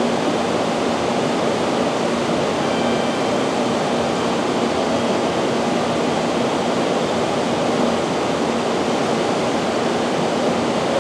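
JR Kyushu 787 series electric train standing at the platform with its air conditioning and equipment fans running: a steady rushing hiss with a faint low hum.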